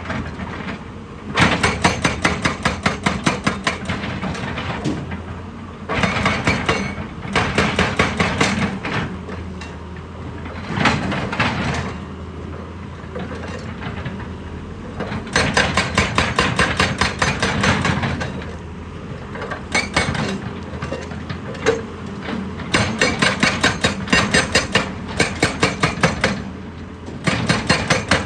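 Heavy machinery hammering rock with rapid percussive blows, about five a second, in bursts of a few seconds with short pauses between, over a steady engine hum.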